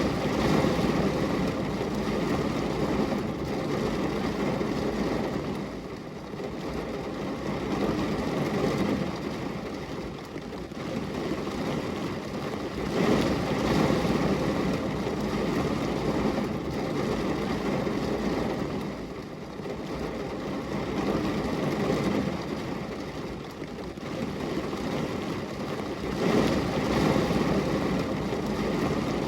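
Rain falling steadily as a dense hiss with a low rumble, swelling and easing every several seconds.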